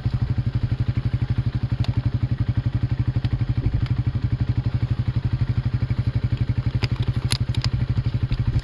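Engine idling steadily with an even, rapid pulse of about ten beats a second, with a few light clicks about seven seconds in.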